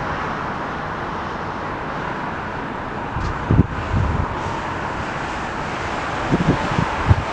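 Strong wind buffeting the microphone in gusts, with low thumps about halfway through and again near the end, over a steady rush of background traffic and airport noise.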